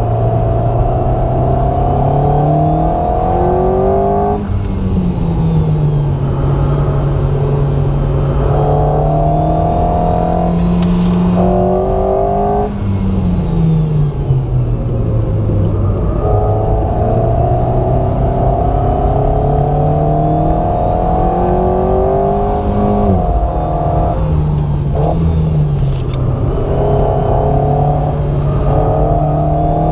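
Alpine A110 GT's turbocharged 1.8-litre four-cylinder engine, heard from inside the cabin, pulling hard through the revs on track. Its pitch climbs and then drops back at each gearshift, and it falls away once as the car slows for a corner before building again.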